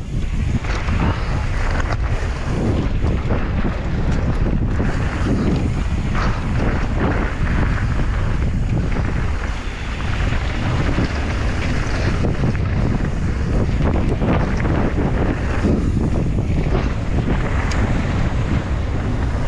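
Heavy wind noise buffeting the microphone in a constant, fluctuating rush, from a mountain biker riding fast downhill.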